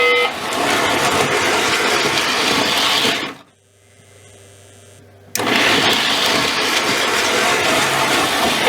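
Model FM Trainmaster diesel locomotive running, a steady, noisy rushing rumble. It cuts out about three and a half seconds in, leaving only a faint low hum, and comes back abruptly a couple of seconds later.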